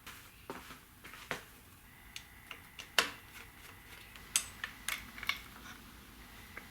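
Scattered sharp clicks and taps of small tools and loose screws being handled while the handlebar controls are unbolted, the loudest about three seconds in.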